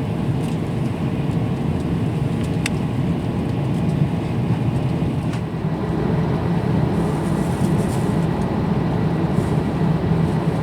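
Steady low drone of engine and airflow noise inside an Airbus A350-900's economy cabin in flight, with a few faint clicks.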